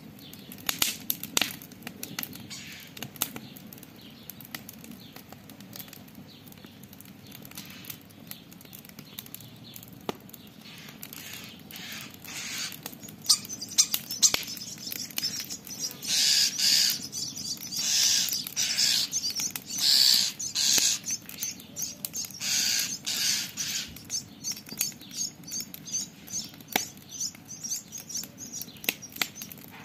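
Campfire crackling with sharp pops throughout. Through the middle stretch come harsh rasping calls, about one a second, from a scolding common starling.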